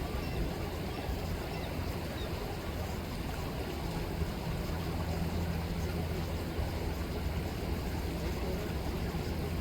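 Chilliwack River flowing with a steady rush of water, joined about four seconds in by a low steady hum.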